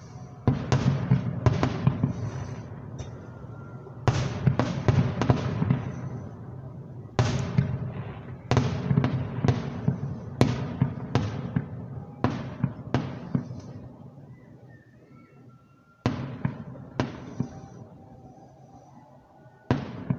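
Aerial fireworks shells bursting in quick clusters of sharp bangs, each followed by a rumbling echo. The bangs thin out to a lull about two-thirds through, then single bursts come again near the end.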